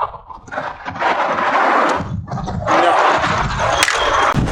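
Strong gusting wind buffeting the microphone, a rough rumble that surges and eases, with a dip in the middle. A sharp click comes near the end.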